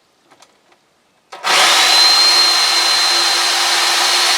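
Corded electric chainsaw starting suddenly about a second in and running at full speed with a steady, high-pitched whine.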